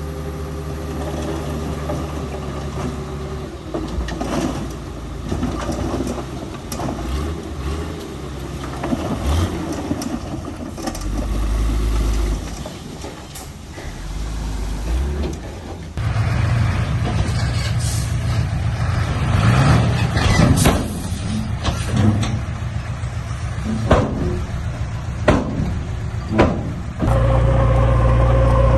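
Heavy diesel truck and earthmover engines running under load, with scattered knocks and clanks. The sound changes abruptly about halfway through and again near the end, as one clip cuts to another.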